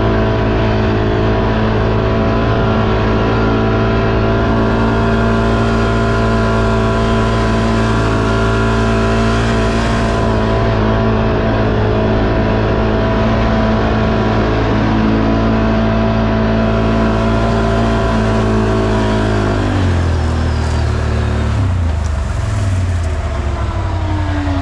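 ATV engine running steadily at a constant pace, its pitch holding level. About 20 seconds in it drops sharply as the throttle is eased off, then wavers up and down at lower revs.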